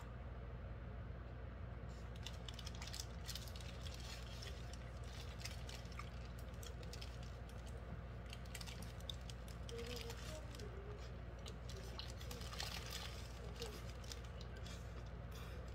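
A person chewing a hamburger close to the microphone: many short wet smacking and clicking mouth sounds, with a fresh bite taken near the end, over a steady low hum.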